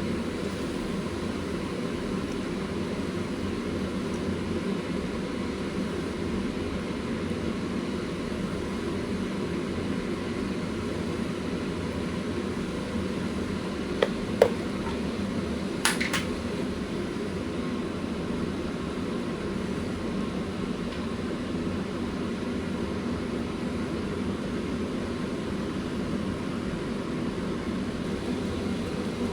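Steady low mechanical hum, with three short sharp clicks about halfway through.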